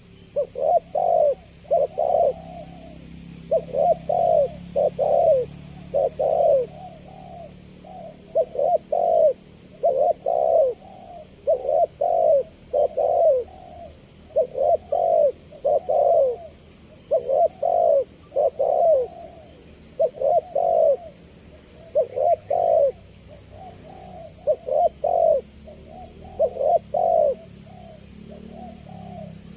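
Spotted dove cooing over and over: short, low coos in phrases of two or three notes, about one phrase every two seconds.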